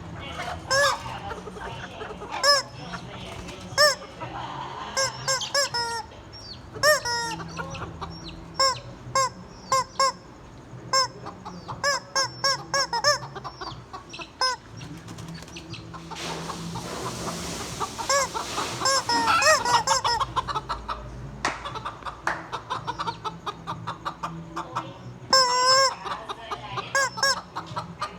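Many short, arching squawks and clucks come one after another: a squeaky rubber chicken toy mixed with real chickens clucking.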